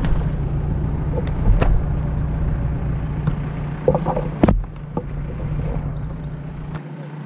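Off-road Toyota Land Cruiser's engine idling with a steady low drone, heard from a few steps away, with a few sharp knocks of footsteps and brush; the drone drops lower after a knock about four and a half seconds in.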